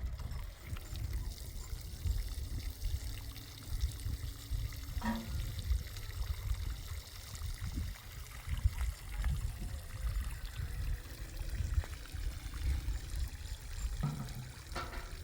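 Water pouring, with a couple of short knocks about five seconds in and near the end.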